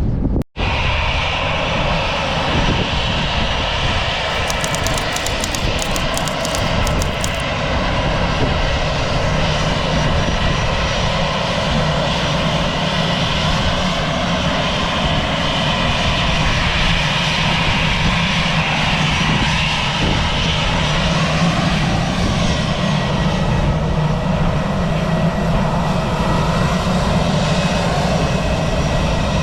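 Jet airliner engines running loud and steady close by, unchanged in level for the whole stretch, with a momentary break about half a second in.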